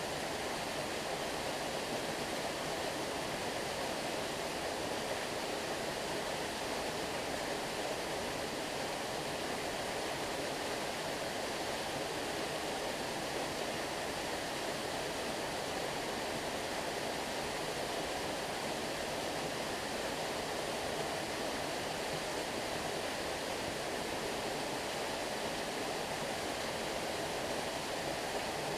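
Stream water running steadily: a continuous, even rush with no breaks or separate splashes.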